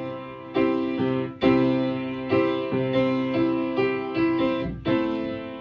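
Piano chords played without singing, a new chord struck about once a second, each ringing on and fading.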